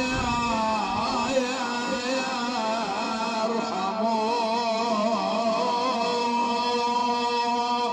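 Male voice chanting a Husayni elegy in a long melismatic line, wavering through ornaments, over a steady held drone.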